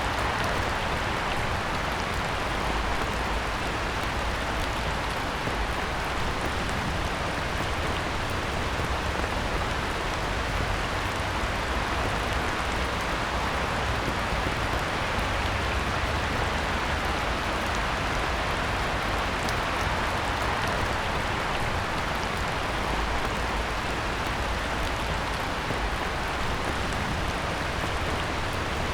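Heavy rain falling steadily on a pond: an even, unbroken hiss of drops striking the water.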